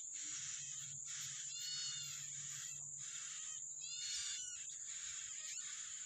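Yellow-bellied prinia nestlings begging at the nest as an adult feeds them: raspy calls in repeated bursts, with short arched chirps about two seconds and four seconds in. A steady high-pitched hiss runs underneath.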